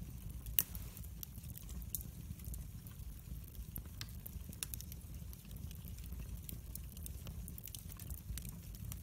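Wood fire burning in a fireplace: irregular sharp crackles and pops over a steady low rumble of the flames. The loudest pop comes about half a second in.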